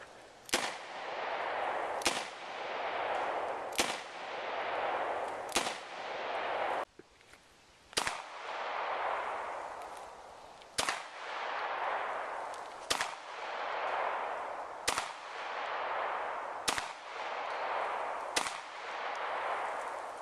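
Ten gunshots fired singly at a steady pace, about one every two seconds, each followed by a long, fading echo.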